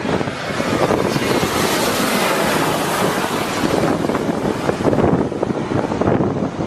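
Jet airliner passing close by: a loud roar and hiss that swells to a peak about two to three seconds in and then eases, its pitch falling as it goes past. Wind buffets the microphone.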